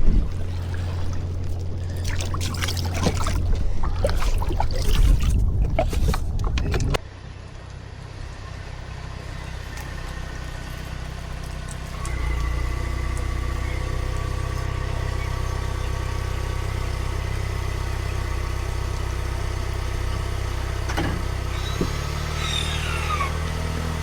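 A vehicle engine running steadily, heard from inside the cabin. It comes in with a step up in level about halfway through. Before it, after a sharp cut, there is a louder low rumble with scattered knocks and clatter.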